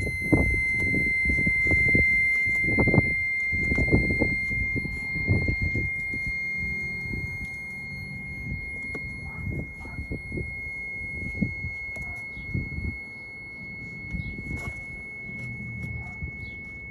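A BMW E46 330i gives a steady high-pitched buzz while the brake pedal is held down, which the owner places at the brake booster. The buzz fades slightly over time, with irregular low thumps and rumble underneath.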